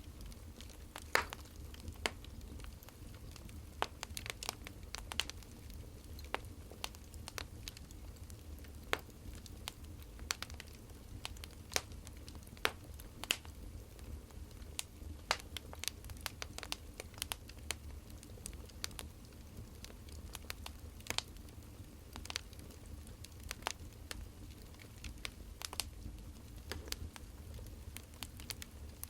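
Wood fire crackling: irregular sharp pops and snaps, several a second at times, over a low steady hum.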